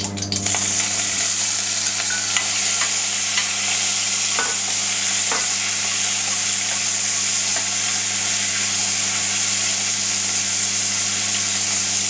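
Paneer cubes frying in hot oil in a kadai: a steady, loud sizzle that starts as the cubes drop in and holds evenly, with a couple of light clicks as they are turned with a spoon.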